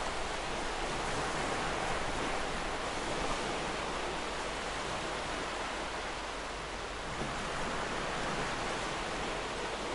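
Ocean surf washing continuously onto a beach as a steady rush of breaking waves, easing slightly about two-thirds through before building again.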